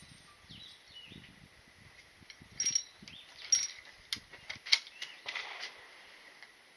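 Wind buffeting the microphone with a handful of sharp clicks and knocks, the sharpest about two-thirds of the way in.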